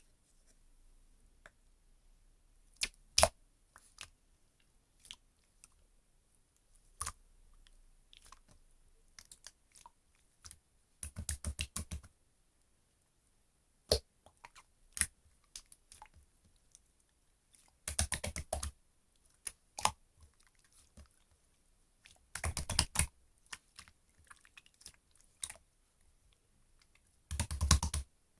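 Grey marbled slime being pressed and worked by hand, making scattered sharp clicks and pops with short runs of rapid crackling every few seconds.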